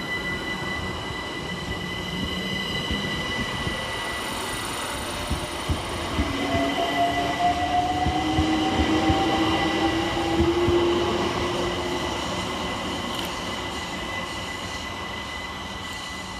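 Electric multiple-unit train moving through the station, with a steady high whine throughout and a rising traction-motor whine from about six seconds in as it picks up speed. Wheels click over the rail joints, loudest around ten seconds in, then the sound fades as the train draws away.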